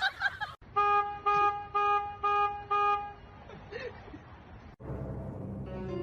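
A horn sounding five short, evenly spaced toots, then a faint hiss, and a low hum near the end.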